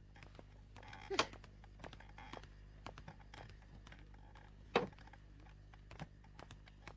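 Faint, irregular light clicks and knocks over a low steady hum, with two brief louder knocks, one about a second in and one just before five seconds.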